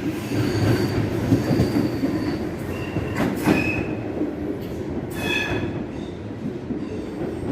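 A train moving over the rails with a steady low rumble, its wheels giving short high-pitched squeals several times, the strongest just after the middle.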